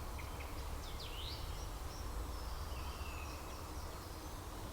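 Outdoor ambience: a steady low rumble with a few short, high bird chirps, most of them in the first second or so.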